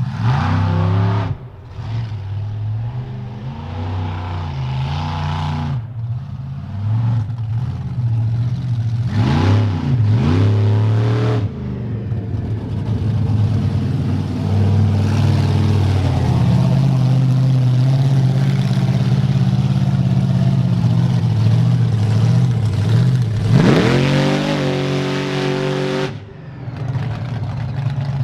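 Monster truck engine running under throttle, with revs climbing about a third of the way in and again more sharply near the end before dropping off.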